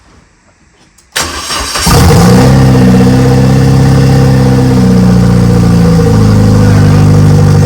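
Renault Megane R26 2.0-litre turbo four-cylinder engine cranked on the starter about a second in, catching within a second and then running loud at a fast idle, its pitch shifting a little as it settles. It is now running on both injectors, after one had been found unplugged and the engine had sounded rough.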